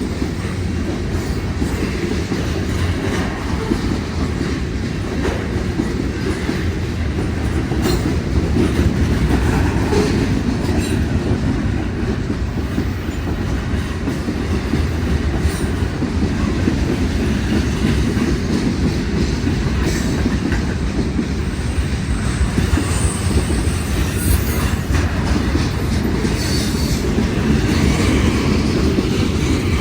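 Railroad cars rolling past on steel rails: a loud, steady low rumble with scattered clicks of the wheels over the rail joints.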